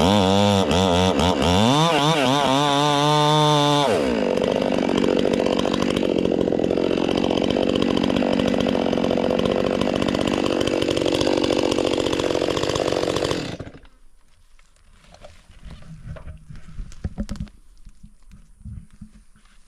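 Electric chainsaw cutting into a fir trunk, its motor pitch wavering up and down under load for the first few seconds, then a steady cut. The saw stops about 13 seconds in, leaving only faint knocks and crackles.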